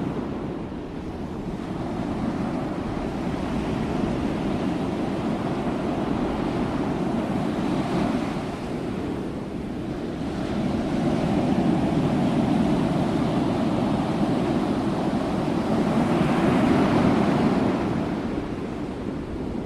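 Ocean waves washing in as a steady rush of surf that swells and eases, with a wave surging about eight seconds in and a longer, louder swell from about eleven to seventeen seconds.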